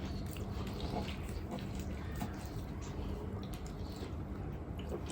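A person chewing food close to the microphone, with small, scattered wet mouth clicks over a steady low hum.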